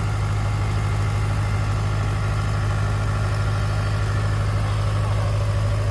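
Heavy diesel engine idling steadily with an even low hum.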